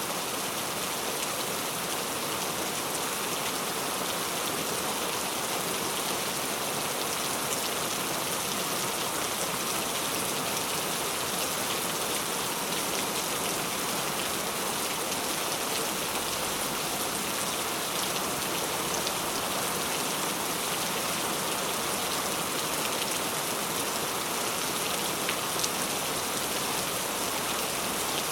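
Heavy rain falling steadily, a dense even hiss of rain on surfaces with faint individual drop ticks scattered through it.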